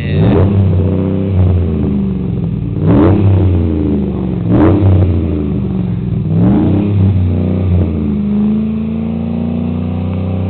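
2011 Chevy 3500's 6.0-litre gas V8 running through a 4-inch Magnaflow muffler and 4-inch tailpipe, with a really deep tone. It idles and is blipped about four times, each rev rising and dropping quickly, then settles back to a steady idle for the last couple of seconds.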